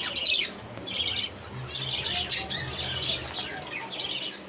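A room of small cage birds chirping and chattering, bunches of quick high calls coming every half second or so.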